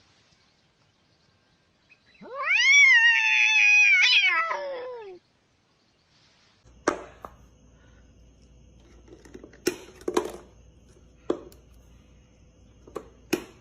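A cat gives one long, loud meow lasting about three seconds, rising in pitch and then sliding down. Several seconds later come a handful of separate sharp knocks or clicks.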